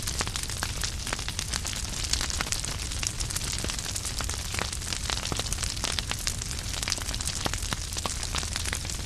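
Wood fire crackling in a fireplace: many sharp snaps and pops over a steady hiss and low rumble of the flames.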